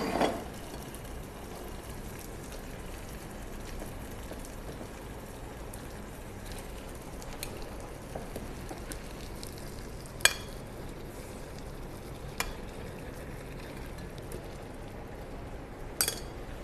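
Blended chili spice paste frying in oil in a pot, sizzling and bubbling steadily, cooked down until the oil has separated and the colour has darkened. A few short sharp knocks come about 10, 12 and 16 seconds in.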